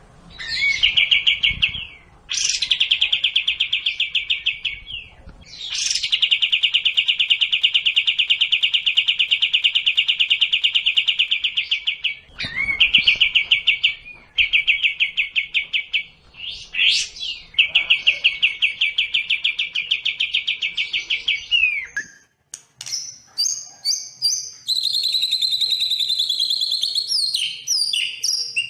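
Recorded songbird song: a series of long, fast, even trills, each lasting a few seconds with short gaps between them. About three quarters of the way through, it turns into a run of varied, higher, broken notes.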